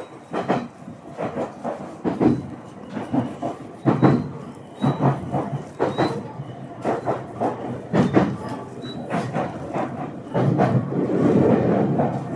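Ueda Electric Railway electric train running: wheels clicking over rail joints in uneven knocks, one or two a second, over a steady running rumble that swells louder about ten seconds in.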